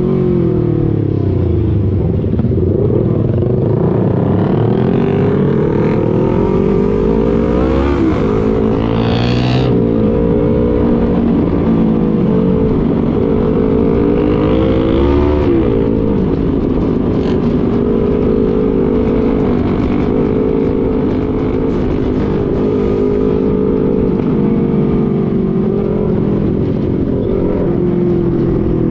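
Motorcycle engine running on the move, its pitch rising and falling repeatedly as the throttle opens and closes, over a constant rush of noise. About nine seconds in, something briefly gives a higher rising sound.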